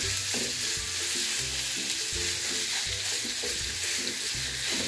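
Raw seasoned ground beef sizzling in hot oil in a nonstick frying pan, stirred and broken up with a wooden spoon, over faint background music.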